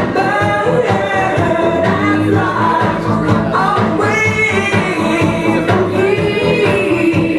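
A live band performing a song: a singing voice carries long, bending notes over a steady beat.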